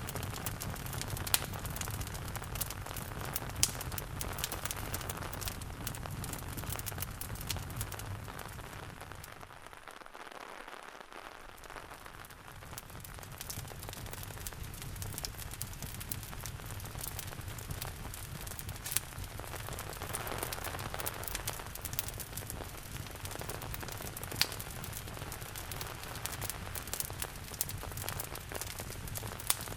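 Steady rain mixed with a crackling wood fire, sharp pops scattered irregularly over the hiss. The sound dips briefly about ten seconds in, then returns.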